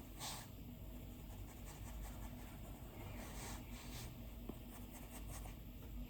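Stylus nib scratching over an iPad's glass screen in soft drawing strokes: one near the start, a longer stroke about three seconds in, and a few short quick strokes near the end.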